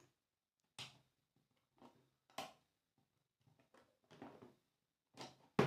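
A few short clicks and rustles of small parts being handled, spaced by quiet gaps, with a sharper click just before the end.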